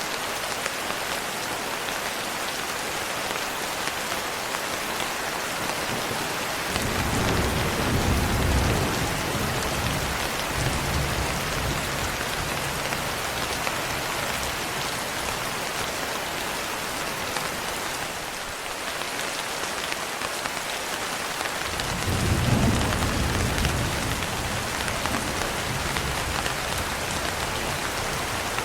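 Steady rain pattering on a window, with two rolls of thunder: one rumbles in about seven seconds in and dies away over some ten seconds, and another starts about twenty-two seconds in and is still rolling at the end.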